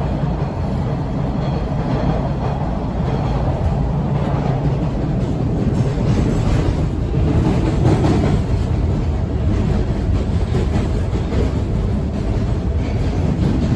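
Bombardier T1 subway car running at speed, heard from inside the car: a steady low rumble with continuous rattling and knocking.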